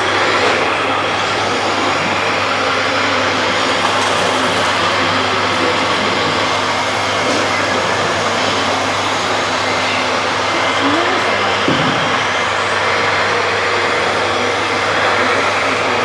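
Radio-controlled model construction machines and tipper trucks running together, a dense steady whir of small motors and gearing, with a brief rising whine about eleven seconds in.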